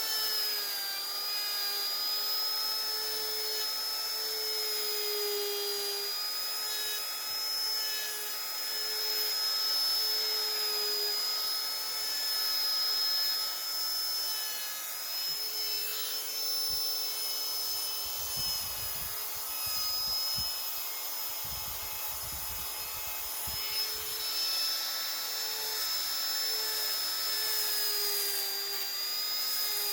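High-speed electric rotary carving tool whining steadily while its bit grinds into wood, the pitch dipping slightly and recovering as the cut loads it. A few low knocks come about two-thirds of the way through.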